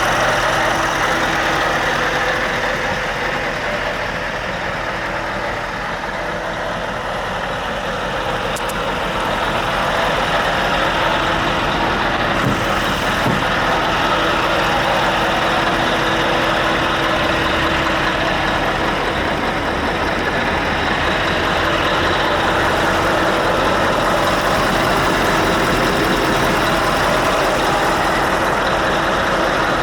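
Scania S730's 16-litre V8 diesel engine idling steadily, dipping slightly in loudness a few seconds in.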